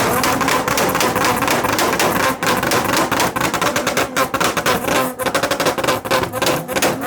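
Car engine held on a two-step launch-control rev limiter, its exhaust firing a rapid, unbroken string of pops and bangs over the held engine note.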